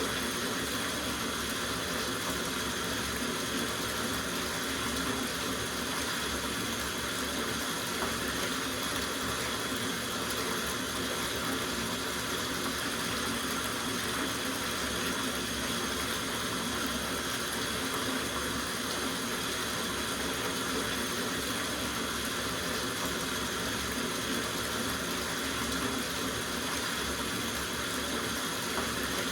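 Water running steadily from a tap into a soaking bathtub, an even, unbroken rush.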